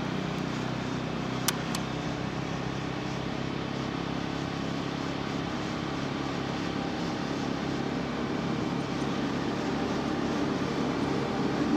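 Bajaj Pulsar N250's single-cylinder engine running under way, with steady wind and road noise, heard through a camera's built-in microphone. Two sharp clicks about a second and a half in.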